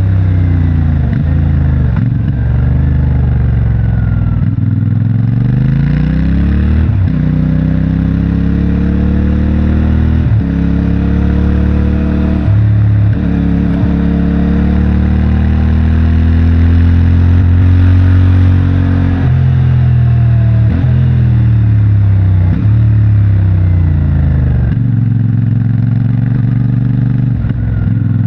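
CFMOTO 450MT's parallel-twin engine with its stock exhaust, under way and accelerating through the gears: the pitch climbs and drops back at each gear change, holds a long steady pull in the middle, and rises and falls with further shifts near the end.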